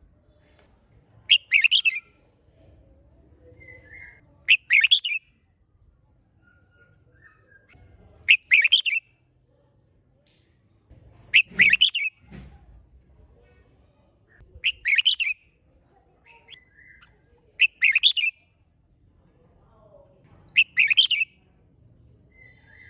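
Red-whiskered bulbul singing: seven short, bright song phrases, one about every three seconds, with a few faint notes between them.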